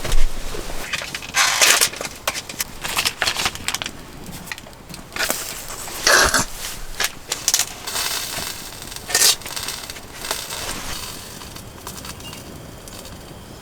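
Irregular crunching and rustling, busiest in the first half, with one sharp knock about six seconds in, then dying down.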